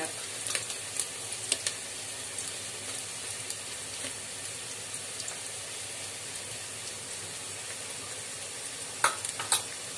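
Chopped onion and bay leaves frying in oil in a large aluminium pot, a steady sizzle. A few light clicks in the first couple of seconds and a sharper pair of taps about nine seconds in, as spoonfuls of red chilli masala go into the pot.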